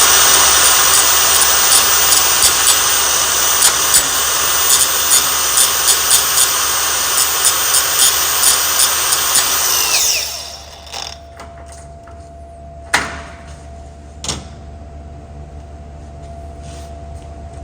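Handheld power tool running steadily at speed for about ten seconds, then winding down and stopping. Two sharp clicks follow a few seconds later.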